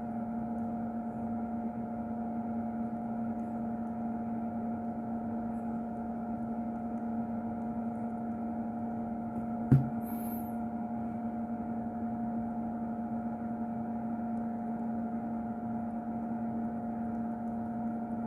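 Steady electrical hum from workbench equipment, with one sharp click about ten seconds in, followed by a brief high chirp.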